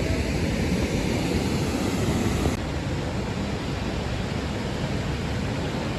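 Steady rushing noise of water and wind outdoors. The hiss drops suddenly about two and a half seconds in.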